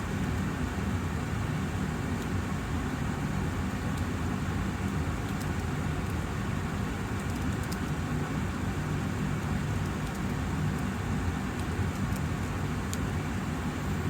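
Austin Air HealthMate air purifier's fan running steadily, a constant low whooshing hum with no change in speed.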